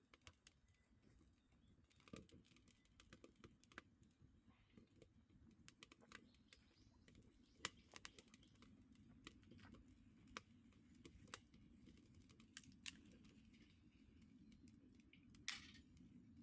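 Small wood fire crackling faintly: irregular sharp snaps and pops at no fixed rhythm over a low steady rush, with one louder snap near the end.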